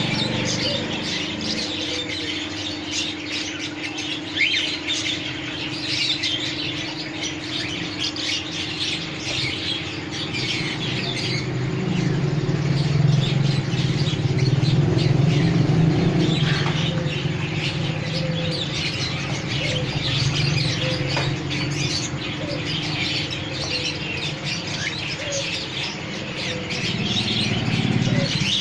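Pet birds chirping and tweeting continuously in many quick short calls, over a steady low hum. A louder low rumble comes in from about twelve to seventeen seconds in.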